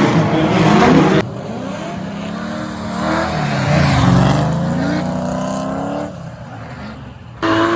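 Drift cars' engines revving, their pitch rising and falling as they slide through the course. About a second in the sound cuts suddenly to a quieter stretch where several engine notes overlap, and near the end it jumps back loud.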